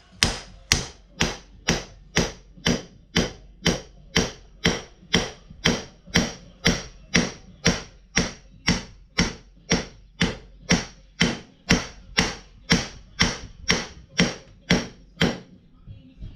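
Hammer striking metal in a steady rhythm, about two blows a second, each with a short metallic ring, driving a bent part onto the mower; the blows stop about a second before the end.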